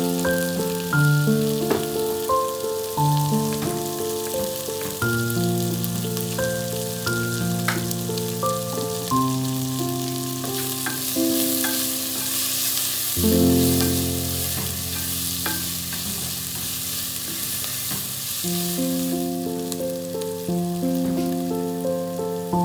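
Background music with a stepping melody over food sizzling as it fries in hot oil in a pan. The sizzle is loudest through the middle.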